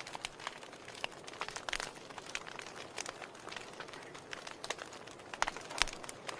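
Wood fire crackling in a fireplace: irregular sharp pops and snaps over a soft steady hiss, with a cluster of louder pops near the end.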